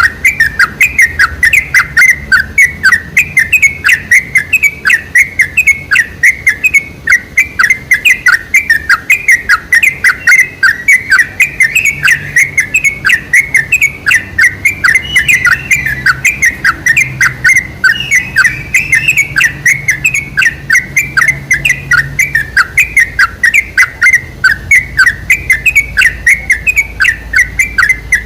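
Yellow-vented bulbul (trucuk) calling non-stop in a rapid run of short chirps, about three a second, played as a lure recording to provoke other bulbuls into song.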